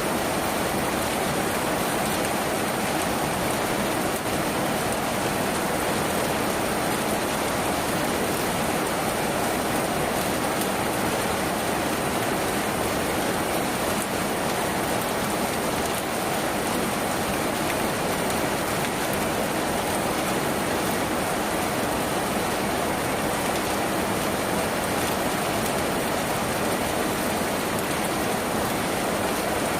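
Steady rain drumming on a tin roof: a dense, even patter that does not let up.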